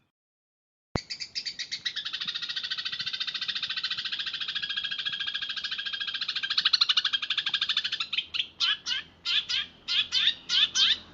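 Eurasian tree sparrows chirping in a rapid, unbroken roll of chirps, which breaks about eight seconds in into separate sharp chirps, about three a second. It opens with a second of dead silence ending in a click, an edit in the recording.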